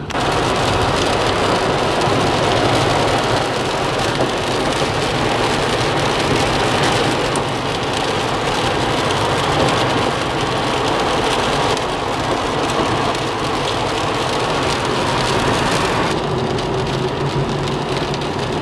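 Car driving in the rain: a steady noise of rain and wet tyres on the road, with a low engine and road hum underneath.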